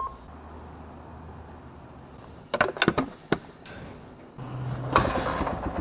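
A quick run of sharp clicks and knocks about halfway through, then near the end a dirt bike's engine starts and settles into an even, rapid idle.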